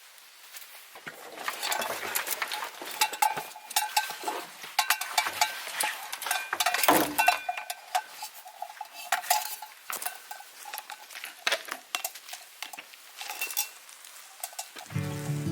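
Small metal gear jingling and clinking irregularly, several times a second, with a light ringing tone, as a person walks along.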